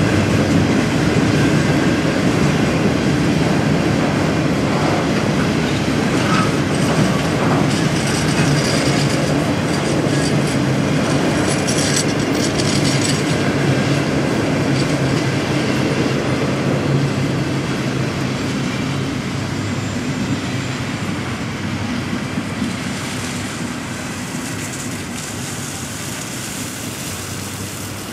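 A long train of passenger-style circus cars rolling past at the crossing, wheels clicking over the rail joints with brief metallic scraping and squeal in the middle. The sound slowly fades as the last cars pass.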